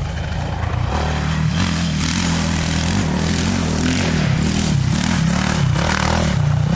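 Off-road motorcycle engine running hard, its pitch rising and falling again and again as the throttle is opened and eased.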